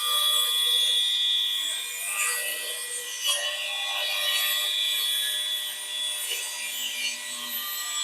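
Circular saw running under load as its blade cuts through a 1-inch-thick wooden board, a steady high motor whine over the rasp of the blade in the wood.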